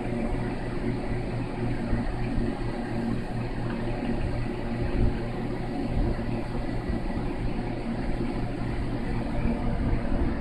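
A steady low mechanical hum with a faint rumble, unchanging throughout.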